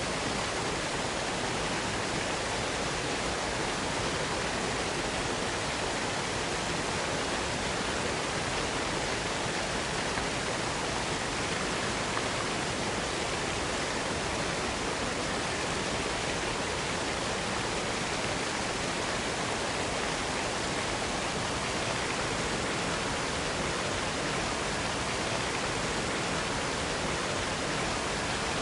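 Waterfall pouring steadily, an even, unchanging rush of falling water.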